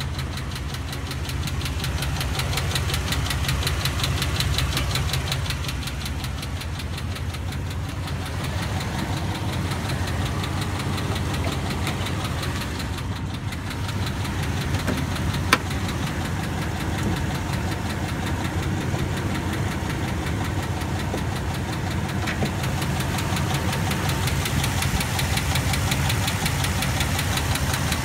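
A Jeep Wrangler TJ's 4.0 inline-six running steadily with a fast, even ticking knock that comes from inside the engine. The noise began after an oil change, and the owner calls it awful. There is a single sharp click about halfway through.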